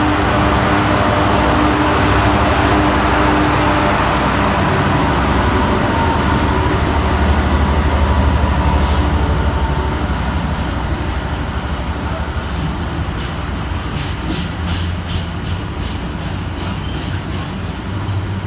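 Freight train passing at speed: a loud rumble with engine tones at first, then the wagons' wheels clicking rhythmically over rail joints, about two to three clicks a second, as the train goes by.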